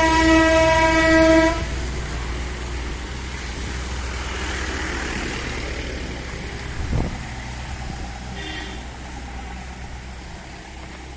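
A long, loud horn blast that stops about one and a half seconds in, followed by a steady low rumble of traffic with a thump at about seven seconds and a brief faint horn toot a little later.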